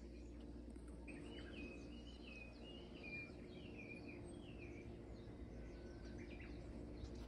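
A songbird singing faintly, a run of quick chirping phrases from about a second in to about five seconds, with one more short call near the end, over a steady low hum.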